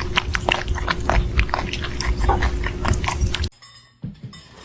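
A cat chewing or biting, with rapid irregular crunching clicks over a low rumble; they stop suddenly about three and a half seconds in.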